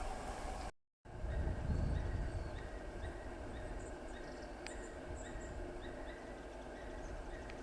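Strong wind buffeting the microphone with a heavy low rumble, loudest just after a brief cut under a second in, while small birds give many short, high chirps.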